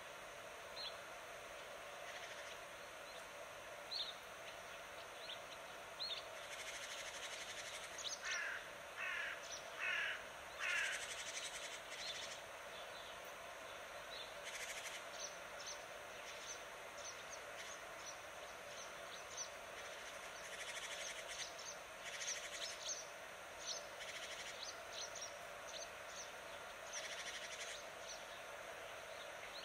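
Birds chirping and calling: short high chirps scattered throughout, with three louder calls about eight to ten seconds in.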